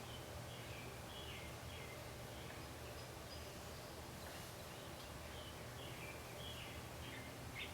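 Faint small-bird chirps, short notes repeating every half second or so, over a steady low background hum.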